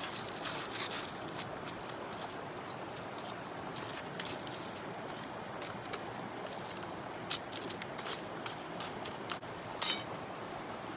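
Wood campfire crackling with scattered sharp pops, one loud pop near the end, over a steady background hiss.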